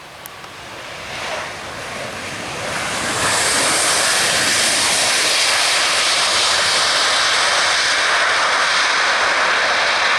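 Jet airliner's engines passing close by: the noise builds over the first three seconds and then holds steady and loud, with a faint high whine running through it.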